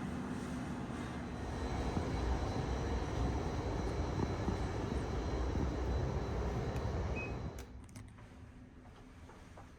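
Steady low rumbling noise of a vehicle running, swelling a little about a second and a half in. It cuts off abruptly about seven and a half seconds in, leaving a much quieter background.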